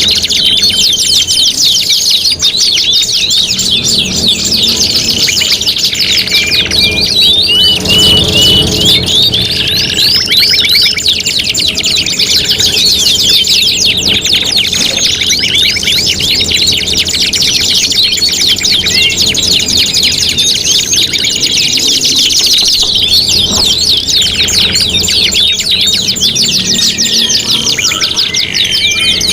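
Several domestic canaries singing at once: long, fast rolling trills and quick rising and falling chirps that overlap without a break.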